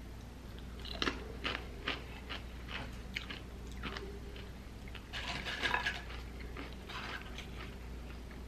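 Tortilla chip crunching as it is bitten and chewed close to the microphone: a run of sharp, irregular crunches starting about a second in, with the loudest cluster near the middle.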